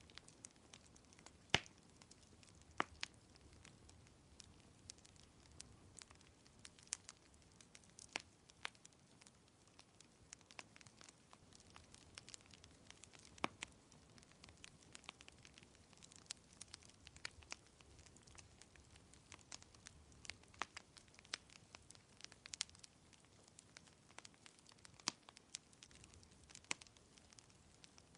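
Wood fire crackling quietly, with irregular sharp pops scattered through it over a faint steady hiss; the loudest pop comes about a second and a half in.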